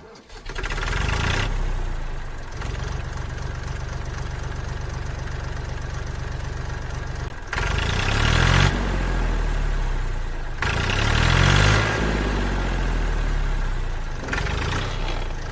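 Engine running steadily, then revving up and down a few times from about halfway in.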